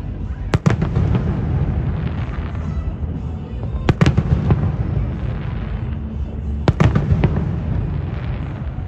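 Fireworks display: sharp aerial shell bangs about half a second, four seconds and seven seconds in, over a continuous low rumble and crackle of bursting shells.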